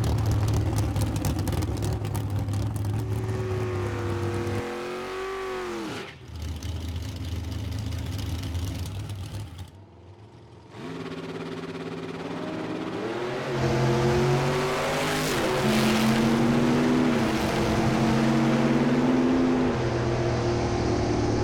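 Vintage drag-race car engines idling and revving, their pitch swinging up and down, with abrupt breaks about six and ten seconds in. From about thirteen seconds in the engines run louder, pitch rising and falling as they rev hard.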